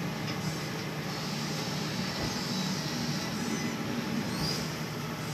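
A boat engine drones steadily under a constant rush of strong wind and sea noise.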